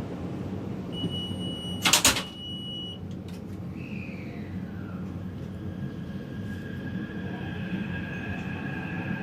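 Metro car interior with a steady low rumble. A high steady warning tone sounds for about two seconds while the sliding doors shut with a loud thud about two seconds in. The train then moves off, and the traction motor whine glides downward and settles into steady high tones.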